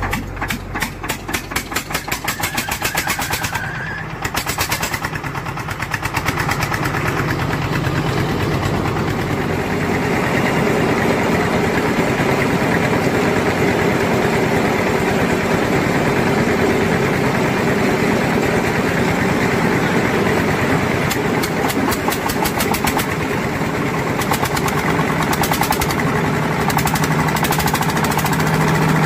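Block-ice crusher machine running loud and continuous as it crushes block ice. It pulses rapidly for the first few seconds, then settles into a steady din.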